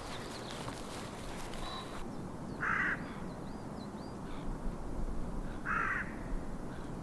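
A crow cawing twice, two short harsh calls about three seconds apart, with a small bird chirping faintly in between.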